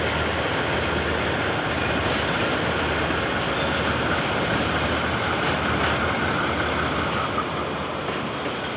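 KiwiRail diesel freight train passing: the locomotive's engine runs steadily as it goes by, then the container wagons roll along the track. The sound eases off near the end.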